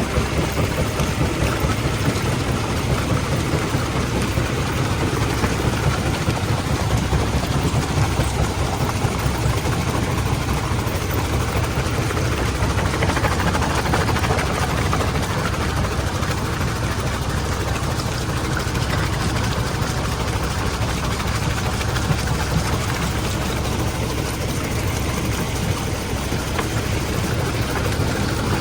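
Stone-crushing plant machinery running: a steady, unbroken heavy rumble with dense noise spread across the range.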